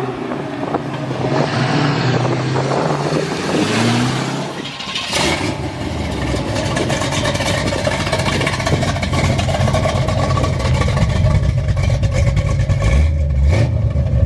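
A car engine running, its revs rising and falling in the first few seconds, then running steadily and getting louder near the end.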